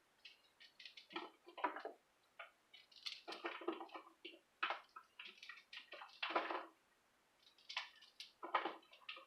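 Cauliflower being cut and broken apart into florets: irregular crunching and snapping in short bursts, with brief pauses between.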